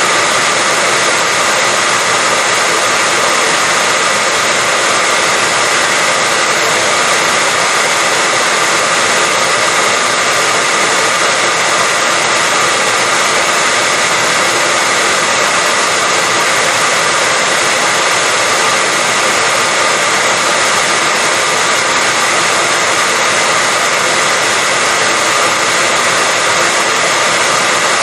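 Hair dryer running steadily, a continuous rushing blow with a faint steady whine, unchanging in level and pitch.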